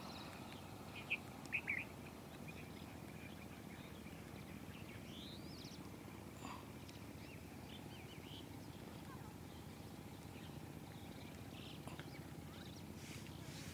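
Steady low background rumble with scattered bird chirps: a quick cluster of high chirps about a second in and a rising call around five seconds.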